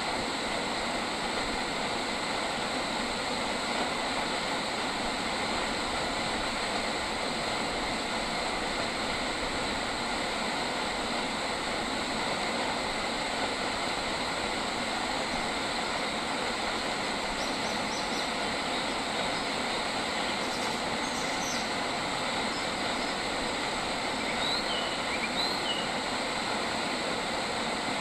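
A steady, unbroken insect chorus, with a few short, faint bird chirps about two-thirds of the way in and again near the end.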